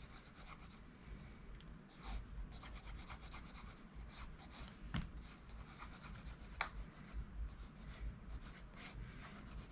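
HB graphite pencil scratching across paper in a run of quick, uneven strokes.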